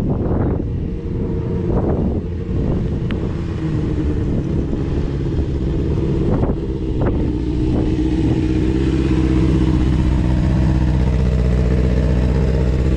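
Suzuki GSX-R600 sport bike's inline-four engine running, its note wavering with a few sharp knocks in the first seconds, then holding steady and slightly louder from about eight seconds in.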